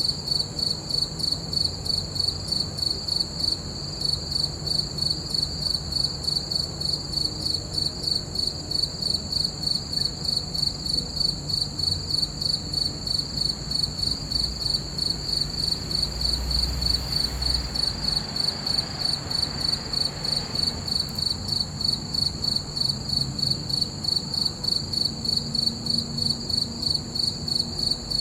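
Crickets chirping in a steady, even rhythm of about two to three pulses a second, with a faint low rumble about two-thirds of the way through.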